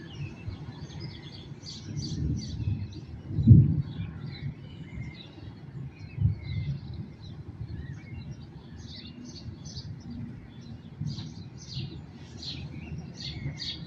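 Small songbirds chirping in many short, repeated calls over a steady low rumble, with a louder low swell about three and a half seconds in.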